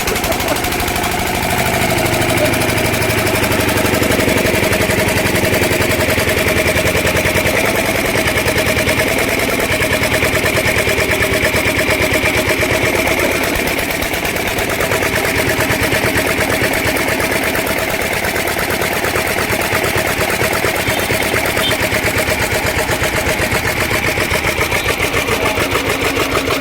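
Old water-cooled, twin-flywheel single-cylinder diesel stationary engine running steadily just after starting, with a fast, even firing beat.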